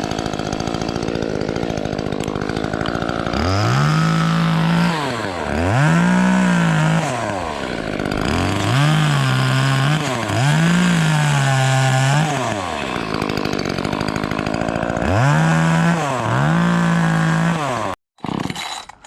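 Dewalt 60V battery top-handle chainsaw cutting through a pine trunk in repeated trigger bursts. About six times the motor spins up, sags a little under load and winds down. It cuts out abruptly near the end.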